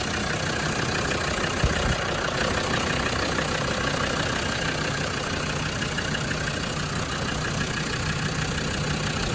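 Land Rover Defender 110 Td5's five-cylinder turbo-diesel engine idling steadily at working temperature. There is a single short thump about a second and a half in.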